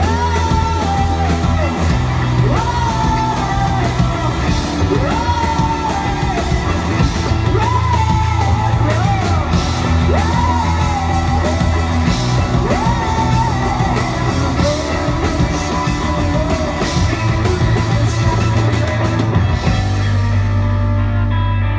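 Rock band playing live, with a vocalist singing in a raw, shouting style, repeating arching, falling phrases about every two seconds over a steady bass and guitar bed. The treble drops away near the end.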